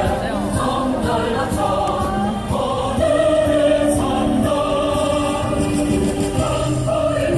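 Music with a choir singing, sustained held notes.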